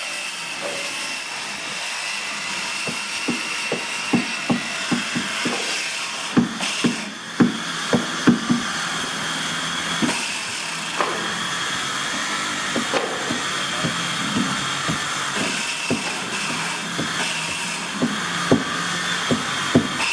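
Irregular knocks of hammering on wood, clustered at two or three a second in places, over a steady mechanical hiss with a high whine, as in wooden boatbuilding work.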